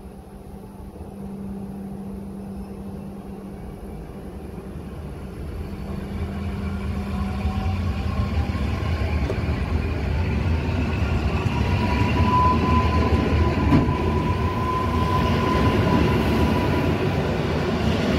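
EN57AL electric multiple unit pulling away from the platform and running past, getting steadily louder as it gathers speed. A low hum at first gives way to the rolling of the wheels, with a rising whine that settles into a high steady tone in the second half.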